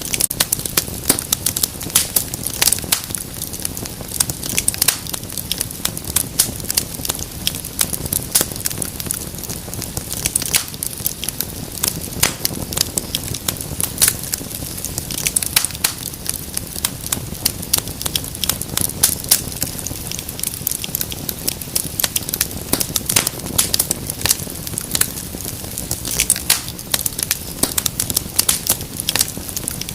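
Wood fire crackling: dense, irregular sharp pops and snaps over a low steady rumble of the flames.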